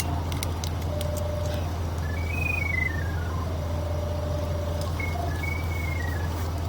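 Sewer camera locator receiver homing on the camera head's sonde: a thin electronic tone that climbs and falls in small pitch steps as the signal strength changes, settling twice on a steady lower note. A steady low hum runs beneath it.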